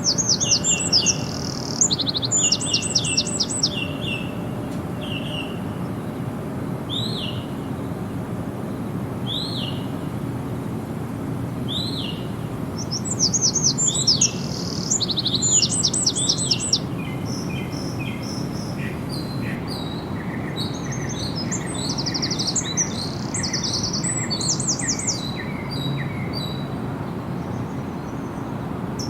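Songbirds singing: bouts of fast high chirps and trills, repeated every few seconds, with a second bird giving a steady series of evenly spaced notes through the second half, over a constant low background rumble.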